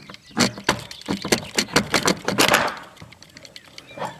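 A quick, irregular run of clicks, knocks and rattles as a hut door is worked open and passed through, with a short scraping rush a little past halfway.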